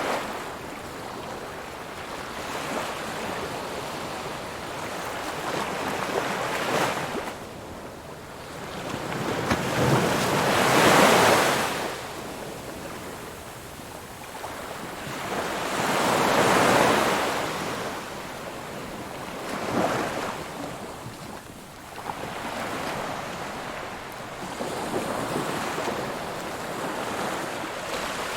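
Ocean waves breaking on a shore, a hissing surf that swells and fades in slow surges, the two largest breakers about ten and sixteen seconds in.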